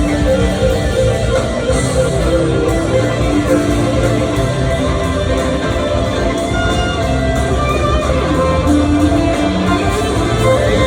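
Live rock band playing an instrumental jam, with electric guitar sustaining notes over a steady bass and drum groove.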